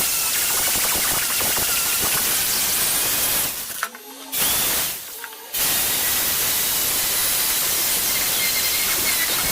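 Steady, loud hiss like static, cutting out briefly twice about four and five seconds in.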